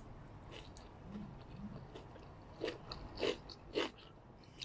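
A person chewing a mouthful of stir-fried egg noodles with vegetables, with soft wet chewing and three louder crunches in the second half.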